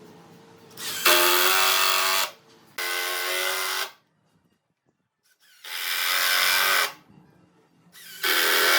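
Power tool run in four short bursts of about a second each, with a steady whine and a hiss, stopping between bursts.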